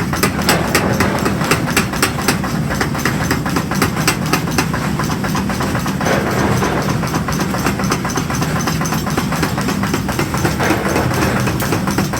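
Workshop machinery running steadily: a low hum with a rapid, even clatter of several strikes a second.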